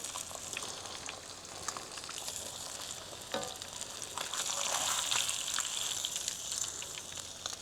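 Breaded catfish fillets deep-frying in hot grease: a steady sizzle with small crackling pops, swelling a little in the middle.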